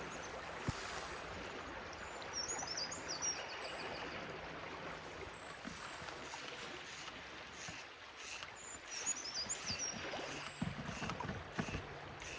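Hand-operated backpacking water filter pump being worked at a stream, with even strokes about twice a second from about halfway through, over the steady running of the stream.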